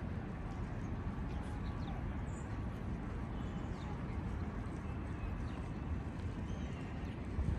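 Outdoor park ambience: a steady low rumble, with a few faint high chirps scattered through it.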